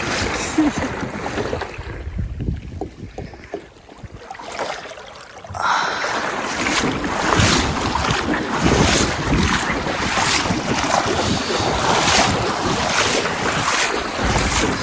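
Wind buffeting the microphone with water rushing past a small boat under way on a river; it grows louder and gustier about six seconds in.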